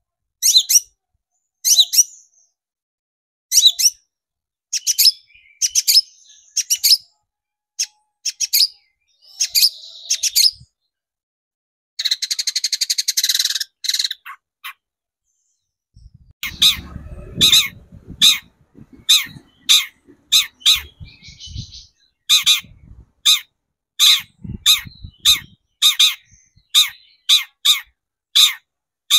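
Long-tailed shrike (cendet) singing: a fast string of sharp, short calls, broken about twelve seconds in by a harsh buzzing chatter, then sharp calls again. Faint low thumps sound under the calls in the second half.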